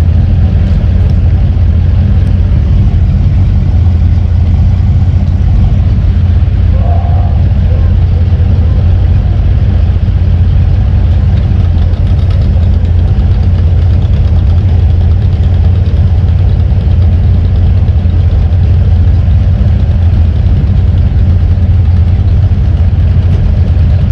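A vehicle's engine running steadily with a loud, unchanging low drone.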